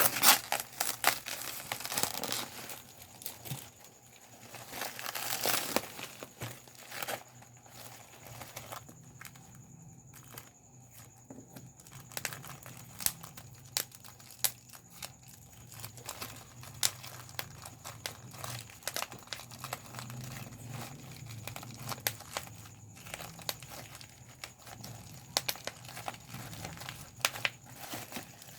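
Bubble wrap being popped by hand: sharp, irregular pops amid the crinkling of the plastic sheet. The pops come thickest in the first few seconds, pause briefly about a third of the way in, then carry on more sparsely.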